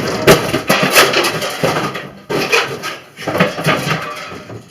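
Loud knocks and clattering of the smashed microwave's broken metal and plastic, in several quick clusters of impacts.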